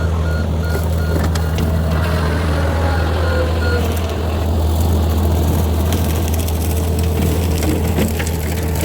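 John Deere 50P compact excavator's diesel engine running steadily, with a rapid beeping alarm until about four seconds in and scattered cracks and snaps.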